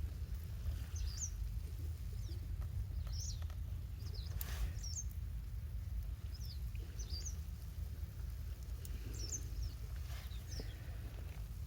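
A bird chirping outdoors: short high calls in small groups every second or two, over a steady low rumble. A brief noise cuts in about four and a half seconds in.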